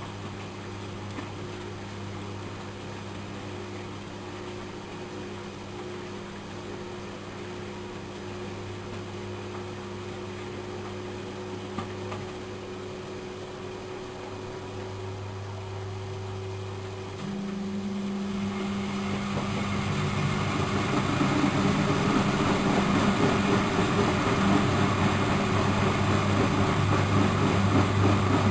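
Miele Professional WS 5105-C washing machine running with a steady electric hum. About two-thirds of the way in, the motor starts driving the drum faster and the running grows steadily louder and more rushing as it winds up into a spin.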